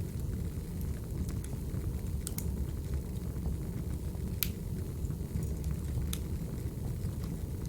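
Recorded wood fire burning: a steady low rumble with sparse sharp crackles and pops, three of them standing out clearly.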